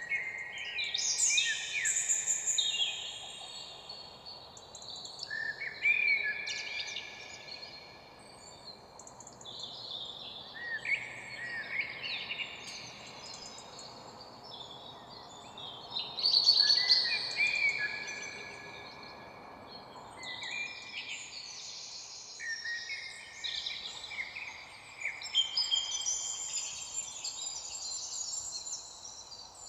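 Several songbirds singing at once, overlapping chirps and short warbled phrases, over a faint steady background hiss.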